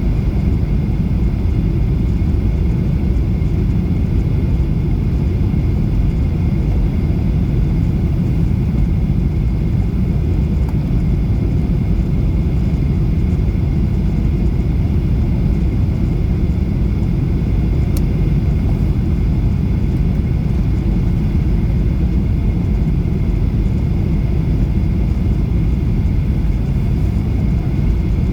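Airliner noise: a loud, steady rumble with a faint high whine above it, unchanging throughout.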